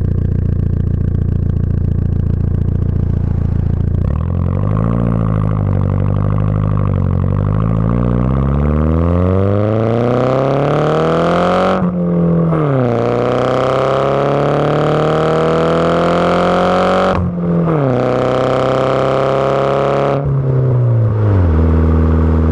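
Audi A4 1.8T turbocharged four-cylinder engine breathing through a catless downpipe and a 3-inch cat-back exhaust, accelerating hard through the gears. The pitch climbs steadily, drops back twice at quick gear changes, and climbs again. Near the end the engine lets off and settles into a steady low drone.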